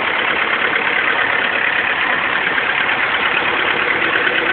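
1974 International 2400A tractor's 50 hp four-cylinder gasoline engine idling steadily.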